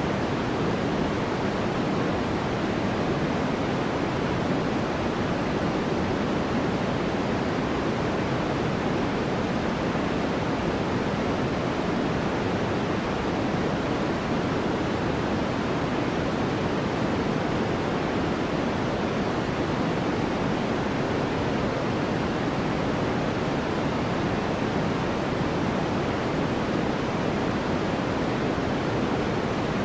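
Steady, unchanging sleep noise of the kind sold as white noise, a smooth even rush with most of its weight low and little hiss at the top.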